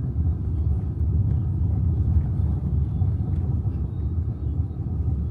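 Steady low rumble with no clear events, continuing without change.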